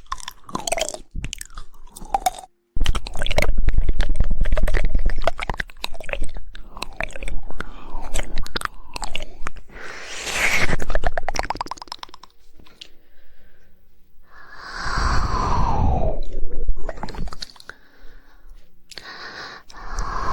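Close-miked ASMR mouth sounds: wet tongue and mouth clicks, with a very fast 'woodpecker' run of tongue clicks around the middle. A couple of sounds slide down in pitch after that, one near the end.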